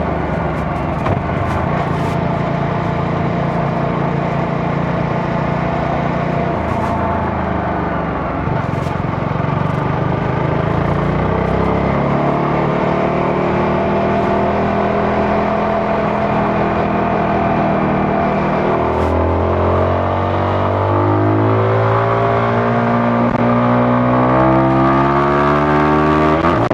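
CFMoto 250NK's single-cylinder engine running under way, fairly steady at first. From about two-thirds in it accelerates, the pitch climbing and dropping back with each upshift through several gears.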